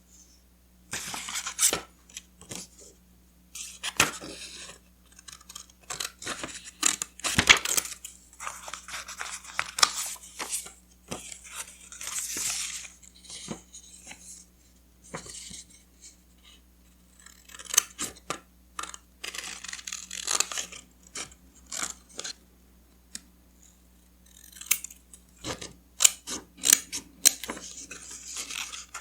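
Close-miked paper and stationery handling for journal collage: paper rustling and crinkling with sharp taps and clicks, coming in irregular bursts with short pauses between.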